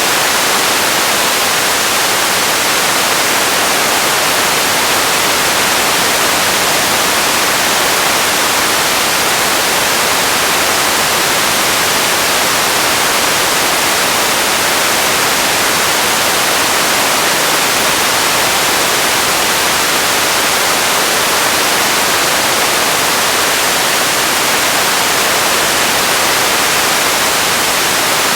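Radio static: a steady, even hiss, strongest in the upper range, with no tones or voices in it.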